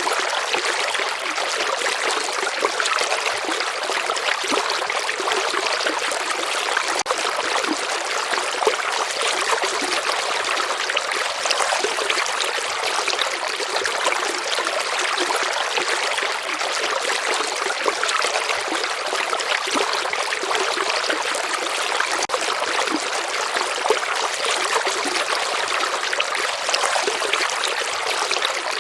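A shallow river flowing steadily, water rippling and trickling over stones in an even, unbroken rush.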